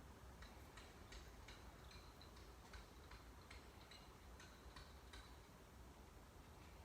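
Faint, sharp clicking, about two or three light ticks a second, over near silence.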